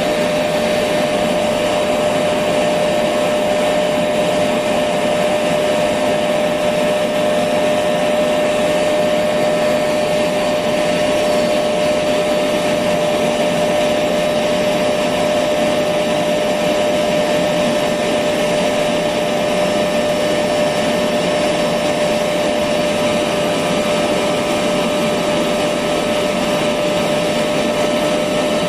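Electric vacuum cleaner running steadily, a constant motor whine over the rush of air.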